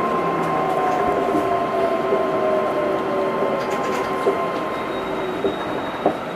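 Astram Line 7000 series rubber-tyred guideway train heard from inside the car while running: a steady rolling rumble with a motor whine that slowly falls in pitch as the train slows. A few sharp knocks come over the last two seconds.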